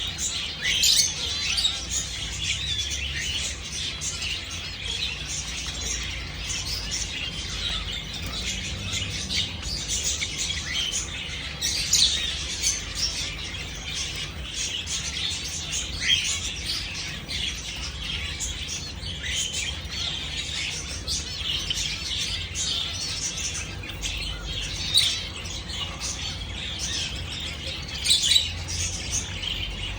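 Java sparrows (Java finches) chirping without a break, many short high calls overlapping.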